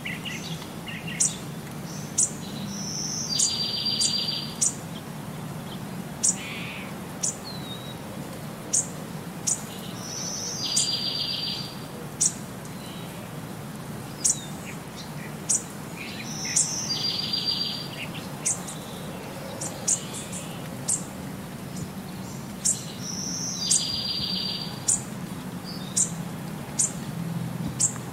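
Birds chirping: short, sharp high chirps about once a second, with a buzzy trill that comes back about every seven seconds, over a steady low hum.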